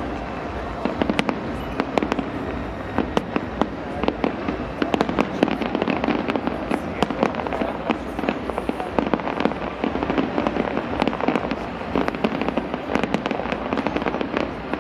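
Fireworks and firecrackers going off in rapid, irregular succession: many sharp bangs and cracks over a steady background din.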